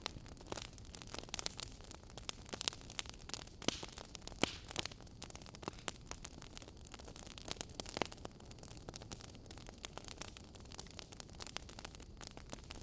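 Wood fire burning in an open fireplace, crackling with irregular sharp pops and snaps over a soft steady hiss.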